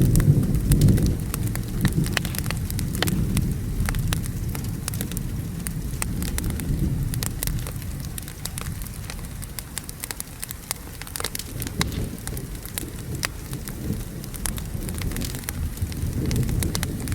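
Steady rain with a low rolling rumble of thunder, loudest in the first second and swelling again near the end. Many sharp pops and crackles from a burning wood fire run through it.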